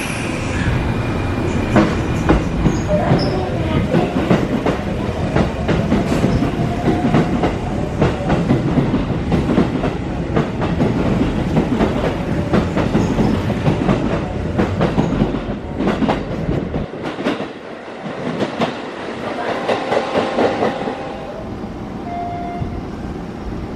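Sanyo Electric Railway electric train pulling out and running past close by: a steady rumble of wheels with many rapid clicks over rail joints and points. The sound drops away about three-quarters of the way through as the last car clears.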